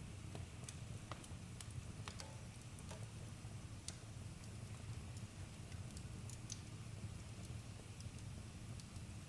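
Campfire crackling: scattered sharp pops and snaps, a few stronger than the rest, over a steady low rumble.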